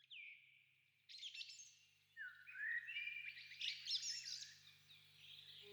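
Birds singing: a single falling call at the start, then, from about a second in, several bursts of quick chirps and trills.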